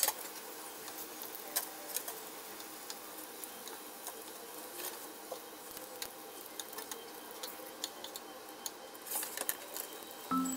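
Spring rolls sizzling in oil in a frying pan, with many light clicks of wooden chopsticks against the pan as the rolls are lifted out, and paper towel rustling at the start.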